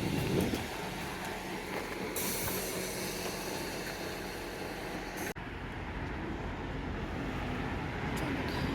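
A train running slowly nearby, a steady low rumble with a higher hiss for a few seconds; the sound breaks off abruptly for an instant about five seconds in.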